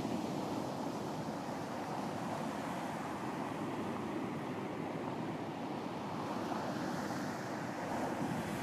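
Sea waves breaking and washing up a beach in a steady surf hiss, with a wave surging in more strongly near the end.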